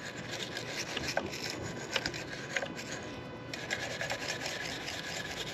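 Brush scrubbing caked debris off a chainsaw: continuous scratching strokes with small ticks. The scratching turns brighter and denser about three and a half seconds in.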